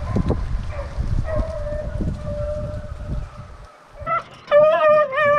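Deer-hunting dog whining close by: loud, wavering, siren-like cries starting about four seconds in, with a fainter drawn-out whine before them over a low rumbling noise.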